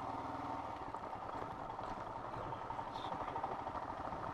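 Royal Enfield Himalayan's single-cylinder engine running steadily as the motorcycle rides slowly along a loose gravel track.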